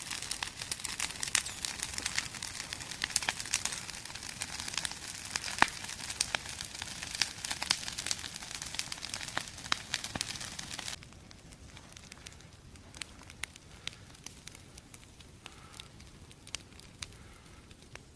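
Wood campfire crackling and popping over a steady hiss, with logs snapping in sharp cracks. About eleven seconds in the sound drops suddenly to quieter, sparser crackles.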